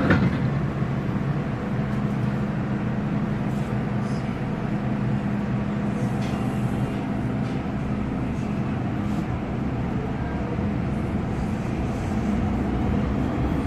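Hong Kong MTR Kwun Tong Line M-Train in motion: the steady rumble of the train running on the track, with a steady low hum.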